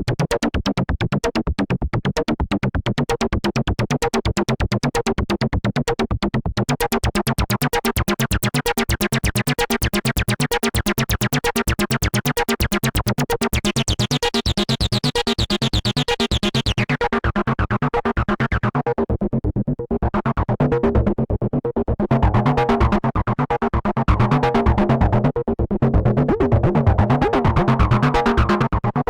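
Behringer TD-3-MO bass synthesizer playing a fast, repeating step-sequenced bass line. Its tone gets brighter about halfway through and then dulls again. Near the end the pattern breaks into louder, choppier phrases.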